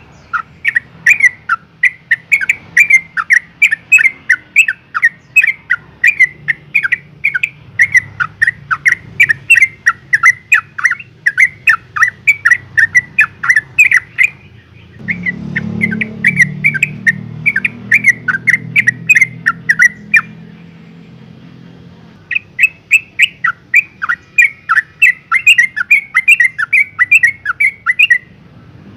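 Yellow-vented bulbul calling: a fast string of short chattering notes, about three a second, breaking off briefly about halfway and pausing for two seconds about two-thirds through before starting again. It is a female's call to males.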